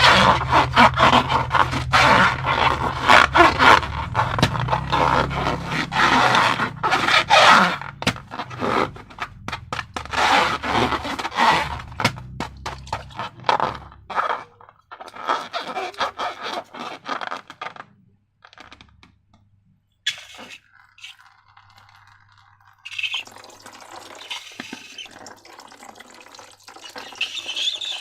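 Slime mixture being stirred and scraped in a container, with many quick wet scraping strokes for about the first half, then sparser handling and liquid sounds of pouring or sloshing near the end.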